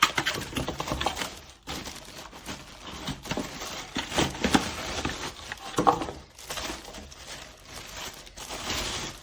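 Plastic vacuum parts and packaging being handled: irregular rustling, scraping and small clicks and knocks as the brush head is unpacked and turned over.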